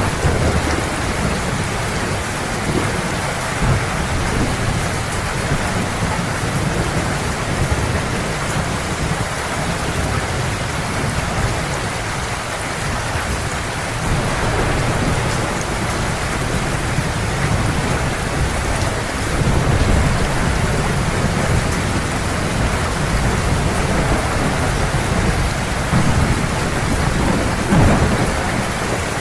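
Heavy rain falling steadily, with low thunder rumbling and swelling now and then, strongest about two-thirds of the way in and near the end.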